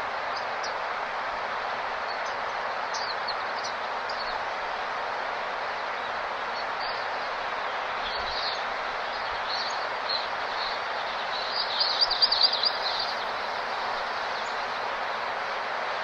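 Small birds giving short high chirps over a steady rushing background. About three quarters of the way through comes a quick, louder run of rapid chirps.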